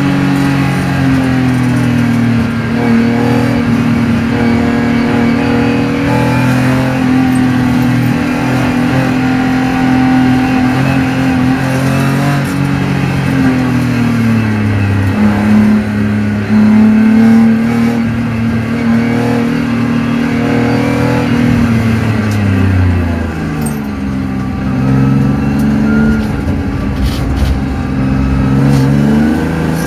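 M50B25 2.5-litre straight-six of a BMW E30 325i under way, heard from inside the cabin. The engine note holds steady, drops in pitch about halfway through, rises, drops again about two-thirds of the way in, then climbs once more.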